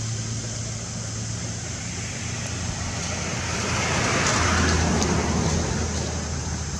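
Road traffic: a motor vehicle's engine hum with one vehicle passing, loudest about four to five seconds in.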